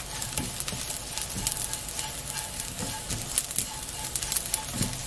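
Dried small anchovies frying in plenty of oil over low heat: the oil bubbles and sizzles with many small crackles while a silicone spatula stirs and turns them in a nonstick wok.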